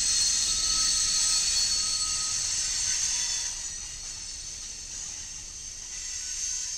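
Freight train led by GE Dash 9 locomotives rolling past, a steady hiss of wheels and running gear on the rails. It is loudest while the locomotives go by and eases off a little after three seconds as the tank car follows.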